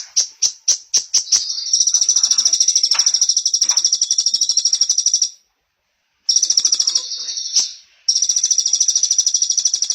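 Small songbird singing high and fast: a quick run of separate chirps, then long rapid trills a few seconds each, with short pauses between them.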